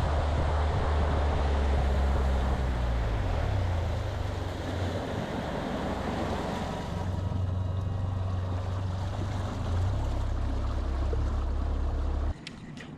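Motorboat engine running with the boat underway, a steady low drone under loud wind and water rush. It cuts off suddenly near the end.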